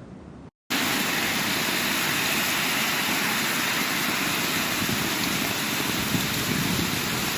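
Torrential rain and floodwater rushing: a loud, steady, dense hiss that starts abruptly after a brief silence about half a second in.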